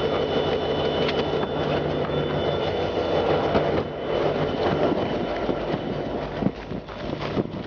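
Train cars rolling past on the tracks: a steady rumble with a few sharp clicks of wheels on the rail.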